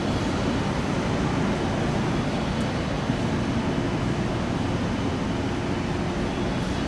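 Steady rushing noise of a heavy downpour, even and unbroken, with a faint low hum beneath it.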